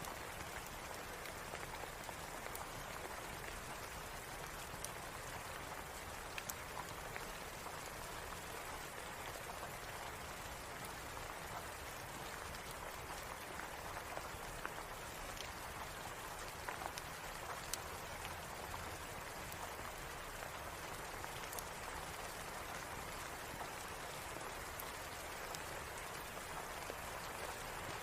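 Steady rain falling, with scattered sharp crackles of a wood fire in a fireplace.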